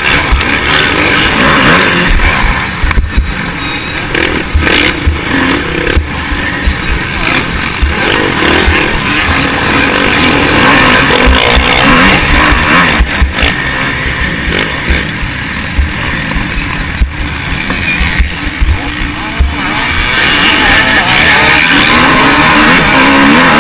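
Motocross bike engine running hard and rising and falling in pitch as the rider works the throttle, with heavy wind buffeting and thumps on the onboard camera microphone. It gets louder again near the end.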